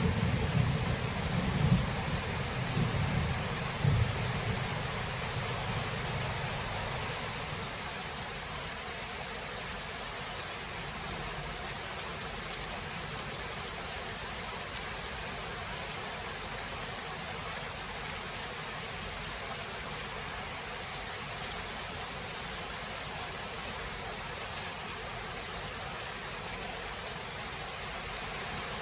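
Thunder rumbling over steady rain, with louder peaks about two and four seconds in. The rumble dies away within about seven seconds, leaving the even hiss of rainfall.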